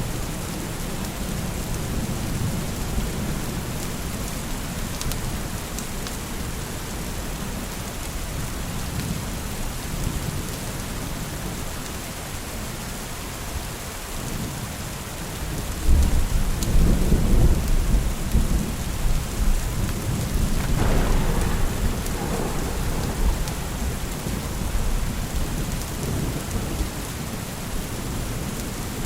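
Steady heavy rain with a rolling thunder rumble underneath; about halfway through the thunder swells into a louder, deeper roll, then slowly fades back toward the rain.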